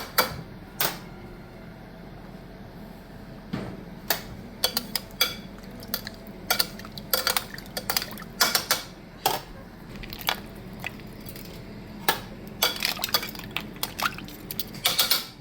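Kitchen utensils and cookware clinking and knocking against pots and dishes in an irregular run of sharp clinks, some with a short ring.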